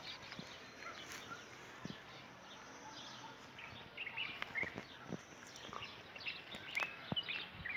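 Small birds chirping, many short quick calls that grow busier in the second half, over a steady background hiss with scattered clicks and knocks.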